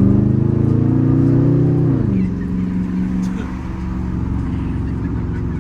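Dodge R/T's 5.7-litre Hemi V8 through a straight-piped, catless exhaust, heard from inside the cabin: the engine climbs in pitch under throttle for about two seconds, drops sharply as the driver lifts or shifts, then drones steadily at lower revs while cruising.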